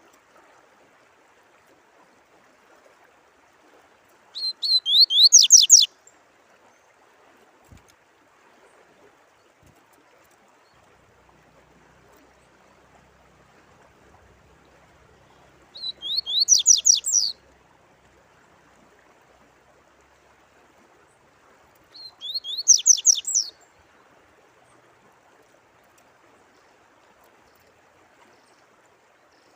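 Songbird singing three short phrases, each a fast run of sharp sweeping whistled notes lasting about a second and a half, with long pauses between them. A faint steady sound of running water lies underneath throughout.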